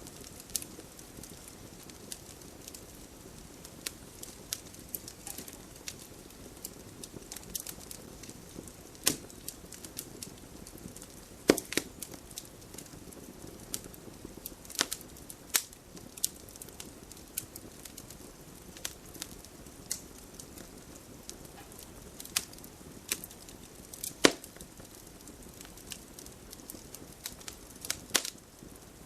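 Wood fire crackling: a steady low hiss of burning logs broken by frequent, irregular sharp pops and snaps, a few louder ones standing out.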